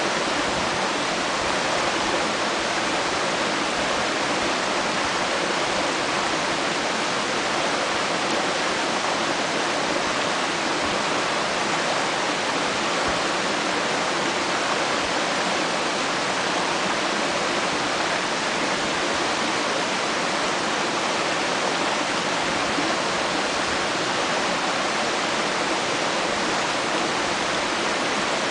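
Mountain gorge stream rushing steadily, an even wash of running water with no breaks.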